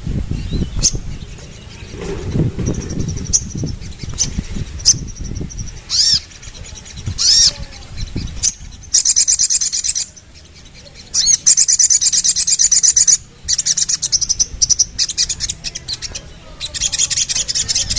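Sogon, the ruby-cheeked sunbird, singing: scattered sharp high chirps and short swooping notes, then from about halfway on long, very fast high-pitched trills repeated with brief gaps.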